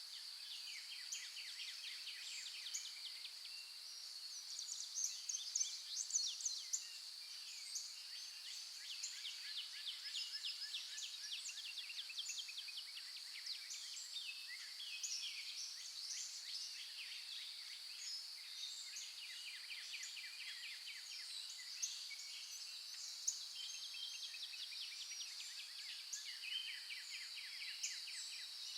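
Morning chorus of several songbirds singing overlapping rapid trills and short chirps, over a steady unbroken high-pitched buzz.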